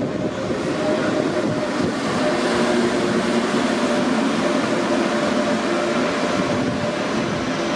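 Electric passenger train running into the station along the platform: a steady rolling noise with a few held low tones from its motors, growing slightly louder after about two seconds.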